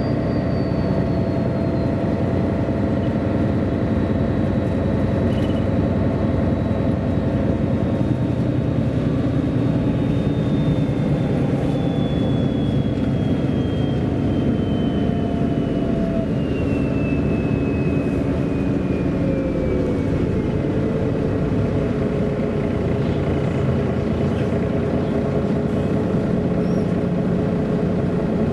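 A MAN A23 articulated city bus driving, heard on board: a steady drivetrain rumble with a thin whine that falls slowly in pitch over about twenty seconds, then holds level.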